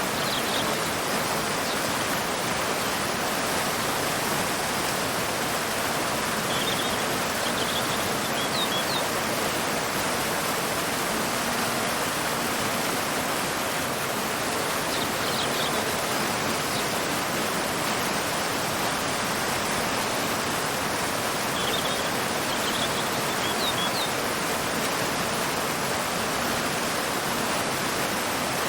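A waterfall pouring into a river, with steady, even rushing water. A few faint bird chirps come through now and then.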